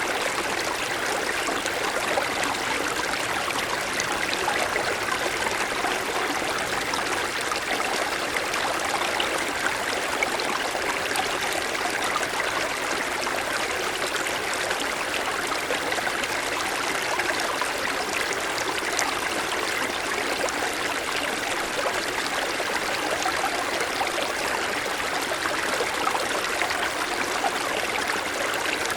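Mountain stream flowing steadily over snow-covered stones, a constant rush and burble of water.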